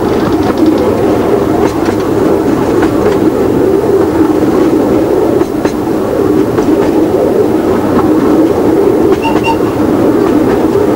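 Miniature light railway train running along the track, heard from on board: a steady rumble of wheels on rail with scattered faint clicks.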